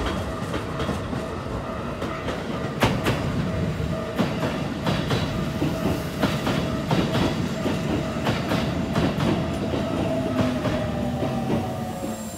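Red Keikyu 1000 series electric train running along the platform, its wheels clicking over the rail joints, with a steady whine that fades near the end.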